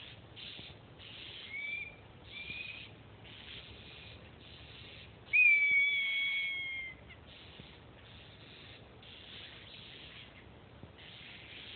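Two short rising whistles, then a louder high whistle held for about a second and a half that sags slightly in pitch, over faint scratchy rustling.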